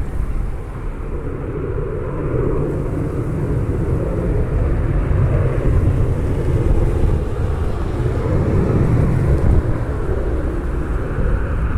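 Jet airliner engines, a steady rumble with no sharp events.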